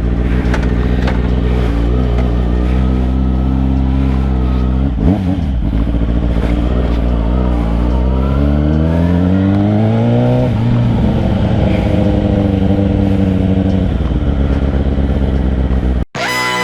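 Motor vehicle engine running under way, its pitch holding steady, then climbing for several seconds as it accelerates before dropping and levelling off again. It cuts off suddenly just before the end.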